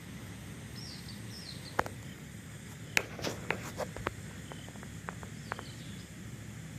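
Outdoor background: a steady low hum with a few short, high bird chirps, and several sharp clicks around the middle.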